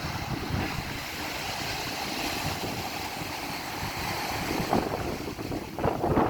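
Atlantic surf: waves breaking and washing up the beach in a steady hiss that swells through the middle and surges again near the end, with wind buffeting the microphone in a low, uneven rumble.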